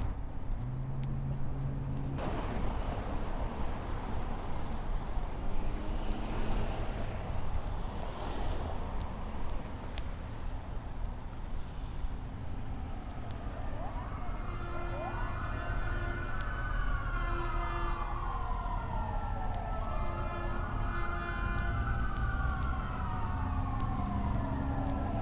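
Steady rumble of city street traffic, and then, about halfway through, an emergency vehicle's siren comes in with a slow wail, rising quickly and falling slowly in pitch about every five to six seconds.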